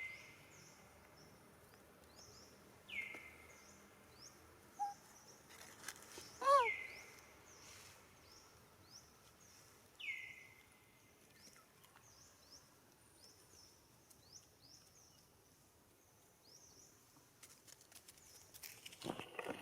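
Birds calling outdoors: a sharp, falling call repeats every three or four seconds over a steady chorus of short, high chirps. About six seconds in comes a louder call, and a few knocks or rustles follow near the end.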